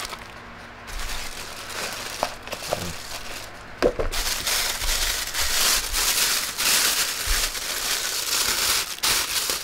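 Packaging being handled, crinkling, with a few sharp clicks early on and denser, louder crinkling from about four seconds in.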